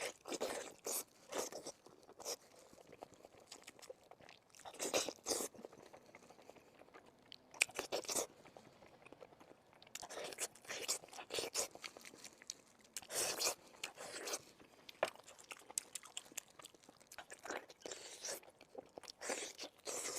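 Close-miked eating of sweet and spicy pork bones: biting and chewing, with bursts of crunching every few seconds and quiet gaps between.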